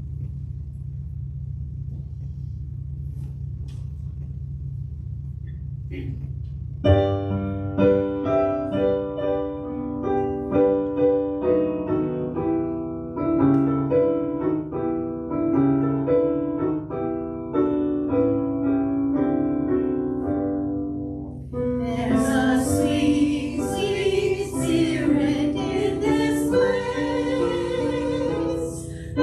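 A low steady rumble, then a piano starts playing about seven seconds in. About twenty-two seconds in, voices join in singing over the piano.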